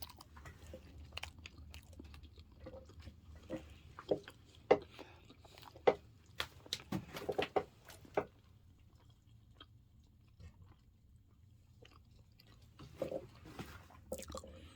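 A person biting and chewing warm, partly dried bananas, heard as irregular short mouth clicks and smacks. They are busiest from about four to eight seconds in, then sparser.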